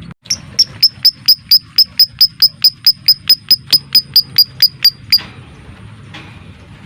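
Lovebird calling a long run of about twenty sharp, high-pitched chirps at a steady pace of about four a second, starting abruptly and stopping about five seconds in.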